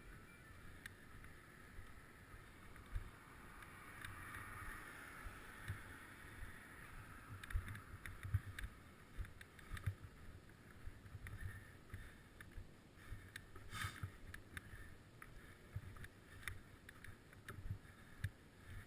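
Wind rushing over the microphone and low rumble from a bicycle ride in motion, with scattered short clicks and knocks, a stronger cluster about two thirds of the way through.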